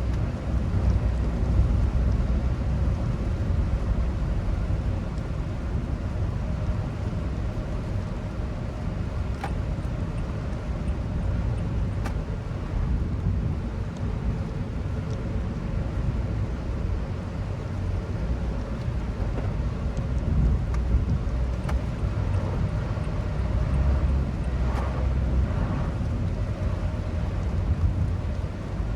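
Car interior noise while driving: a steady low rumble of road and engine, with a few faint clicks now and then.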